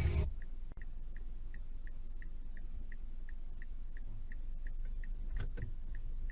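A car's turn-signal indicator ticking evenly, about three times a second, inside the cabin over a low engine and road rumble. A few faint knocks come about five seconds in.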